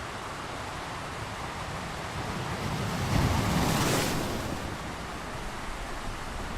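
Ocean surf: a steady wash of water, with one wave swelling and breaking about three seconds in, then falling back.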